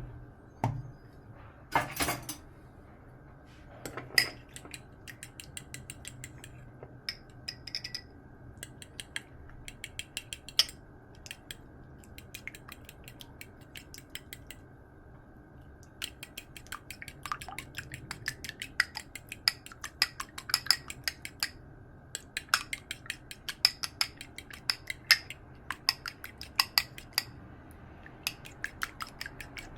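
A utensil clinking against a bowl, as when eggs are being beaten: scattered clinks at first, then a long run of quick, regular taps through the second half.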